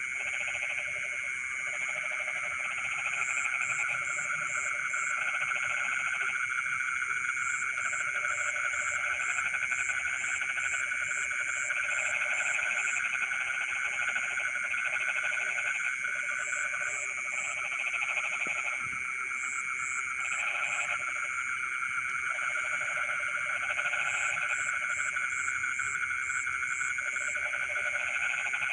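A dense chorus of frogs calling at night from flooded rice fields: several steady, overlapping trills run throughout, while lower pulsed calls start and stop in bouts every second or two, and short runs of high, quick chirps come and go above them.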